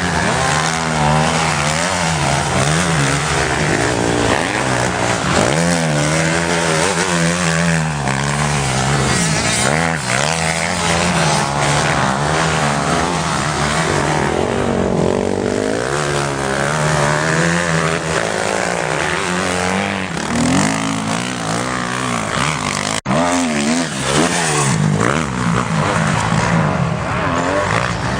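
Several motocross motorcycles racing, their engines revving up and down over one another without pause. The sound cuts out for an instant about three-quarters of the way through.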